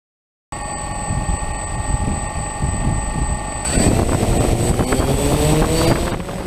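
DJI Phantom quadcopter's motors and propellers whirring with a steady high whine. About three and a half seconds in the sound changes and rises in pitch as the rotors speed up.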